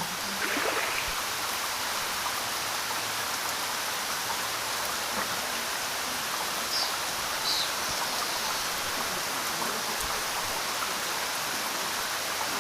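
Steady rush of falling water from a waterfall, an even hiss with no pauses, and a few brief high chirps about seven seconds in.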